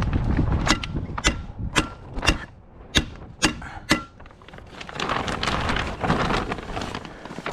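A stapler driving staples into wooden roof trusses: seven sharp clacks about half a second apart, some with a short metallic ring. After them comes a stretch of steady wind noise.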